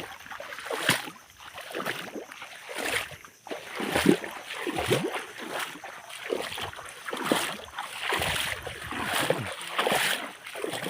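Water sloshing and splashing in repeated surges, roughly one a second.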